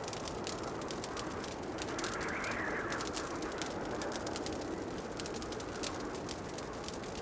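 Wood fire crackling in a fireplace, with many small sharp pops over a steady rushing hiss, which swells briefly about two seconds in.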